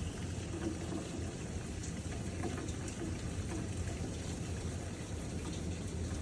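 Heavy rain pouring steadily, with scattered drops ticking close by.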